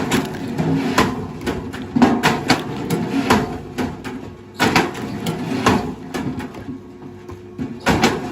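Heavy machinery working: an engine hums steadily under irregular knocks and clunks, one to three a second, as wood and metal strike.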